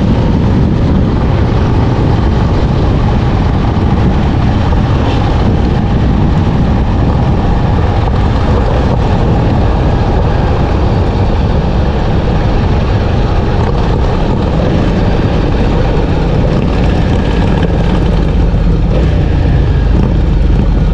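Harley-Davidson Dyna motorcycle's V-twin engine running, loud and steady, with no change in pace.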